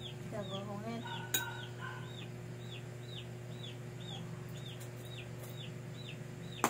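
A bird peeping steadily off-screen: short high peeps, each quickly rising and falling in pitch, about two a second. A low steady hum runs underneath.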